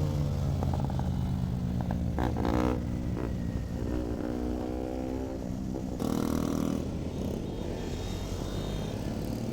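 Motorcycle engines running on the move, their pitch rising and falling as the bikes accelerate and ease off. There is a short clatter of sharp clicks about two seconds in.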